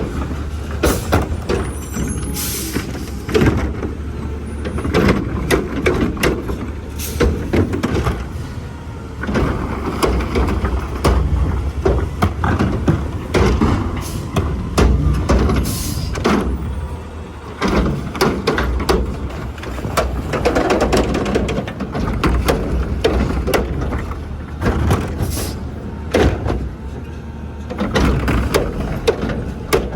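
Garbage truck at work: its engine running steadily under many knocks and clanks, with short air hisses about two and a half seconds in and again around sixteen seconds.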